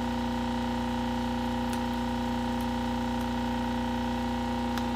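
Hot-air rework station's blower running at high airflow: a steady hum made of several tones, with a few faint clicks.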